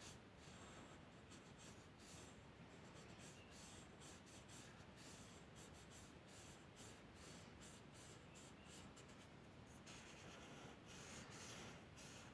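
Faint scratching of a drawing tool on paper: many short, quick strokes, a little louder near the end.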